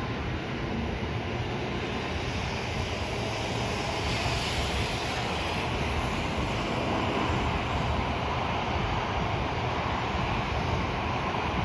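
N700-series Shinkansen train running past alongside the track: a steady rumble of wheels on rail under a rushing hiss. The hiss grows a little louder about four seconds in.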